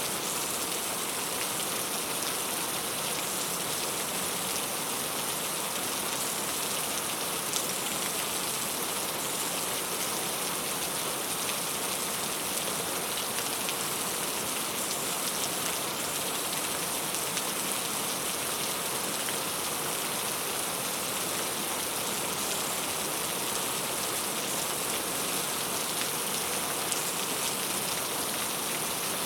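Steady rain falling, a dense even hiss of raindrops with faint scattered patters, unchanging throughout.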